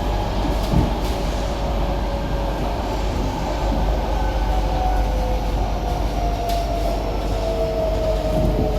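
Interior running noise of an SMRT C151B metro train: steady wheel and track rumble, with the traction motor whine sliding slowly down in pitch through the second half as the train slows.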